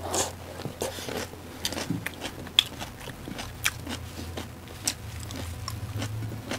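Two people chewing and biting into food eaten by hand, including a fresh green chilli: irregular crisp clicks and crunches over a faint low hum.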